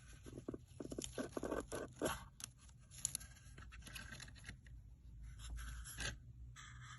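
Close handling noise: scraping and rustling with a string of sharp clicks, loudest in the first two seconds and again near the end.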